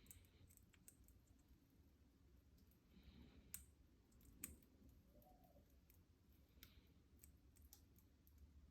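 Near silence: faint, scattered sharp clicks over a low hum.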